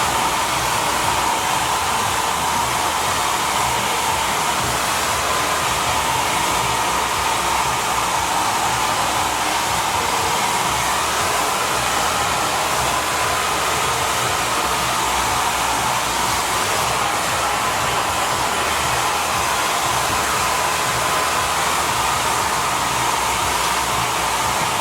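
Holistic Cure Dryer Rp. hair dryer running steadily on its Airy speed-dry setting while drying hair. It blows a strong, even rush of air with a constant whine.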